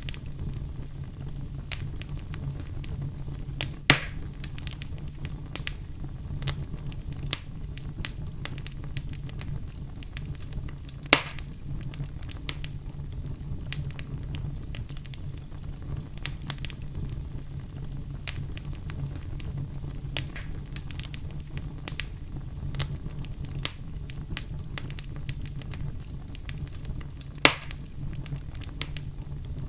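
Wood fire in a fireplace crackling, a steady low rumble of flame under frequent small snaps, with three louder pops, about 4, 11 and 27 seconds in.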